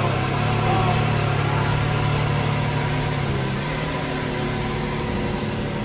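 Car engine running with a steady low droning note, which shifts slightly lower and a little quieter about three and a half seconds in.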